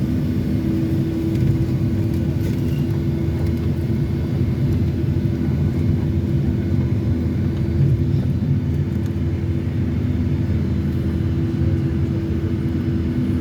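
Boeing 757-300 cabin noise after landing: a steady low rumble of the idling engines and air systems, with a constant hum running through it.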